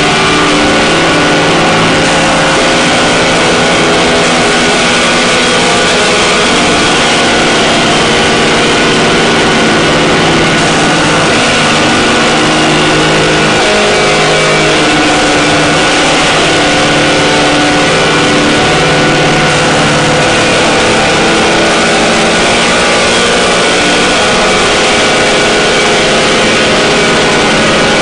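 Harsh noise drone music: a loud, unbroken wall of distorted noise with steady droning tones held underneath.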